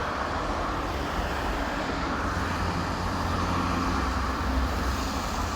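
Steady traffic rumble from a nearby toll highway, an even wash of passing vehicles with a strong low drone.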